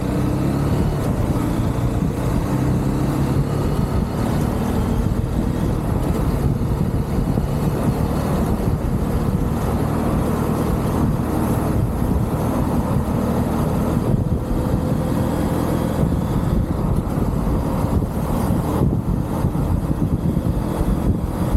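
UM Renegade Commando 125 motorcycle engine running steadily while riding at speed, mixed with wind and road noise.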